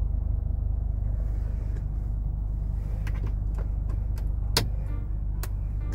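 Toyota car engine idling, heard from inside the cabin as a low, steady rumble. A few sharp clicks come in the second half, the loudest about four and a half seconds in.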